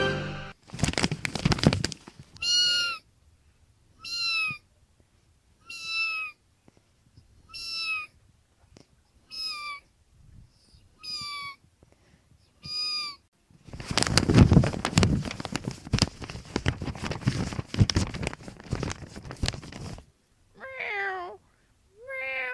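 A kitten meowing over and over, seven short high-pitched meows about one and a half seconds apart, each falling slightly in pitch. Brief rustling at the start and a long stretch of rustling in the middle, then two lower calls near the end.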